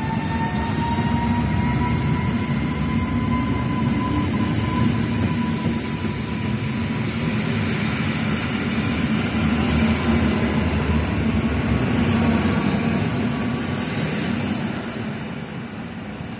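Koleje Mazowieckie electric multiple unit running past along the platform: a steady rumble of wheels and carriages with a faint whine that rises slightly in pitch over the first few seconds. The sound eases off near the end.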